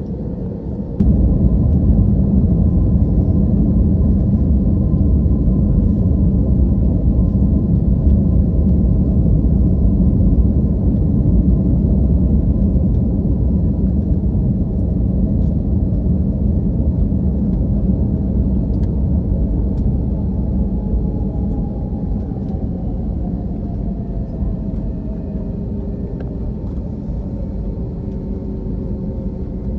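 Steady low rumble of cabin noise inside an Airbus airliner, stepping up suddenly about a second in. Faint whining tones slide down in pitch past the middle.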